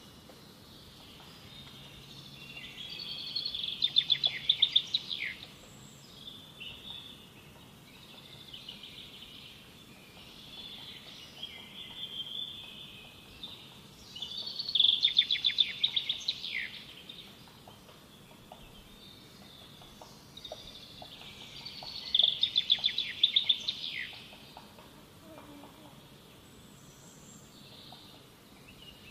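A bird calling repeatedly: a loud, rapid trilled phrase, heard three times about eight seconds apart, with softer chirps in between.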